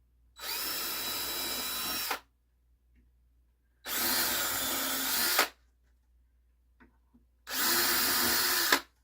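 Power drill run in three short bursts of about a second and a half each, a steady motor whine, driving screws into a wooden crosscut sled.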